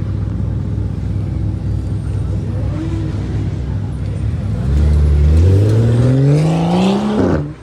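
Performance car engine running at a low rumble, then accelerating hard from about five seconds in, its note climbing steadily in pitch for a few seconds before it cuts off abruptly.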